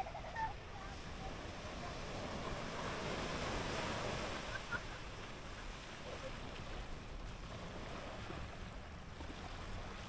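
Surf washing onto a sandy beach, a broad hiss that swells about three to five seconds in and then eases. Wind rumbles on the microphone underneath.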